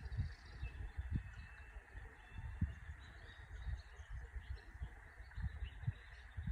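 Small birds chirping in short, scattered calls over a steady background hiss, with wind buffeting the microphone in low rumbling gusts.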